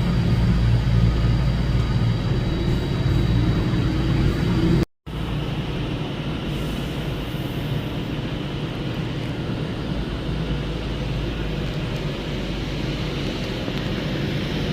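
A train at a station platform, its running sound a steady heavy rumble with a faint high whine. The sound drops out completely for a moment about five seconds in, then comes back as a steadier rushing noise.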